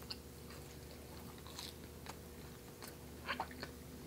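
Close-up chewing of a chocolate peanut butter cronut: soft, wet mouth clicks and small crackles of pastry, with a louder cluster a little over three seconds in.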